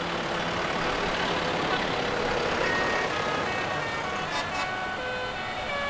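Tractor engines running in a steady drone, with faint notes of music coming in about halfway through.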